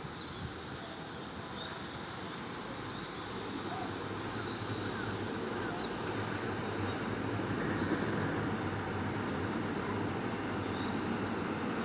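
Steady rumbling vehicle noise that grows gradually louder, with a few faint high chirps over it near the end.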